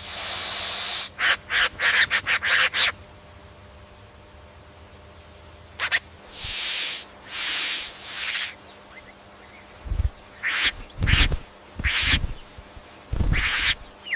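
A bird's harsh, rasping cries in a string of short bursts, some quick and clipped, others longer and hiss-like.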